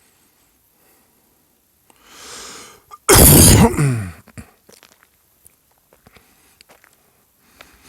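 A person sneezing once, loudly: a short sharp intake of breath, then an explosive burst whose pitch falls away. A few small clicks follow.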